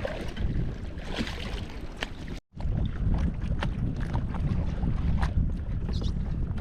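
Wind buffeting the microphone over the low rumble of open water, with small splashes and ticks of water against a kayak. The sound cuts out completely for a moment about two and a half seconds in.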